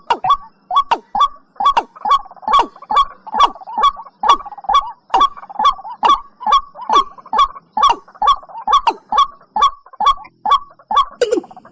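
Recorded watercock calls: a rapid, even series of short notes, about three a second, each dropping in pitch.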